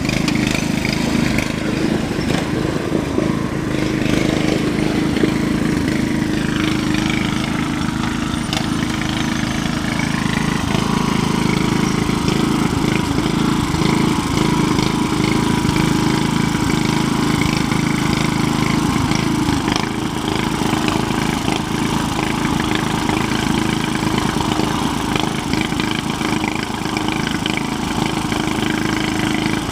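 Tractor engine running steadily, its low drone holding at an even level throughout.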